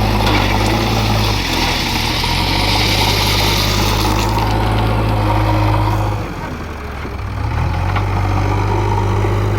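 Heavy diesel engine running steadily with a low hum. Its note eases off and quietens about six seconds in, then picks back up.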